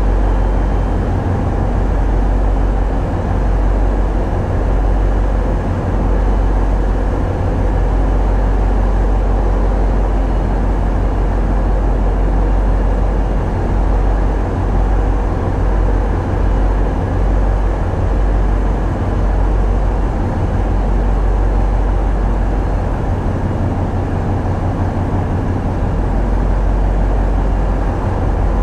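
Tugboat diesel engines running steadily under way, a loud, even low hum that does not change.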